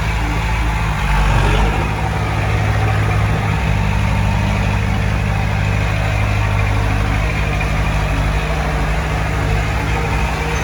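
Heavy diesel engine of earthmoving machinery running steadily, briefly louder about a second in.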